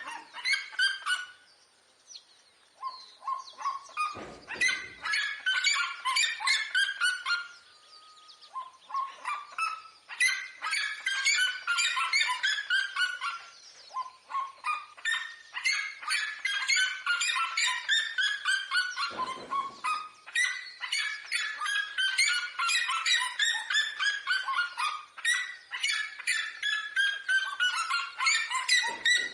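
Red-legged seriema calling: long bouts of loud, rapid yelping notes, each series falling in pitch, with series overlapping as though more than one bird is calling.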